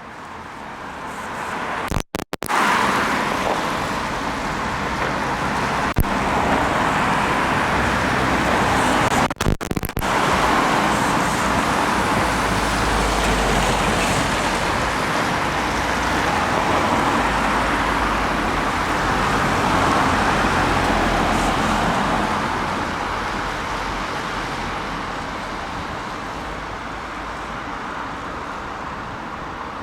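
Road traffic noise: a steady rush of tyres and engines from vehicles passing, with a deeper engine rumble in the middle that fades toward the end. No siren is sounding.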